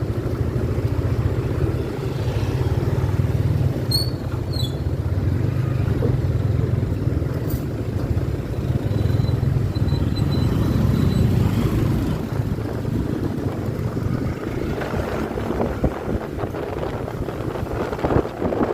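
Motorcycle engine running on the road while riding, with wind rushing over the microphone. The low engine drone eases a little after about fourteen seconds.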